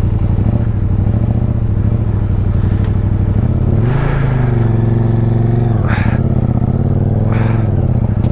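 Motorcycle engine running at a low, steady pace, then revving up about four seconds in, easing off and revving again near the end as the bike is ridden off.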